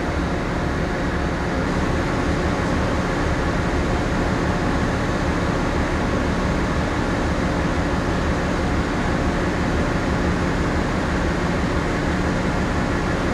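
Steady machinery and ventilation hum aboard a moored passenger ship, with a few constant low tones under an even rush of air.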